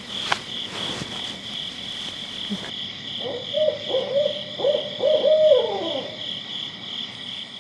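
An owl hooting a run of calls, ending in a drawn-out falling note, over a steady, pulsing high-pitched chorus of night creatures. There is a sharp click just at the start.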